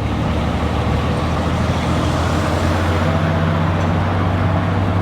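Tuk-tuk engine running steadily with road noise, heard from the passenger seat during the ride.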